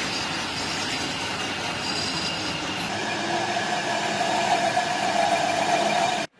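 Factory machinery running with a steady high squeal over a noisy hum; the squeal grows stronger over the second half, then the sound cuts off abruptly just before the end.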